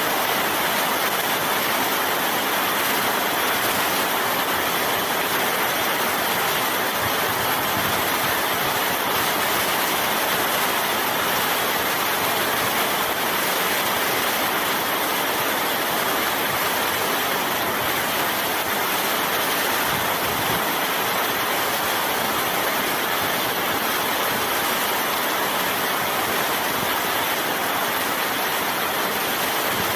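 Heavy rain pouring down steadily, a dense, even hiss of countless drops that holds at one level throughout.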